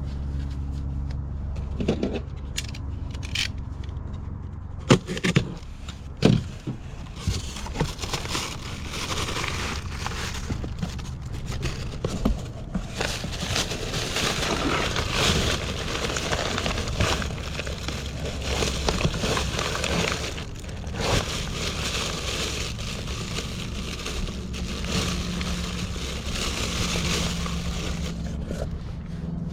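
Rummaging through dumpster trash: plastic bags and packaging crinkling and scraping, with a few sharp knocks in the first several seconds, over a steady low hum.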